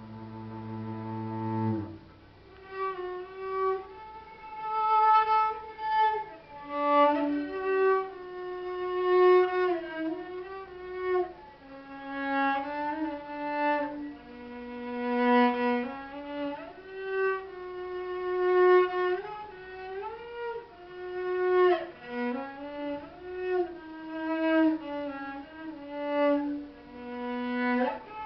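Solo cello: a held low note, then a melody of long, swelling notes higher up the instrument, often sliding from one pitch to the next.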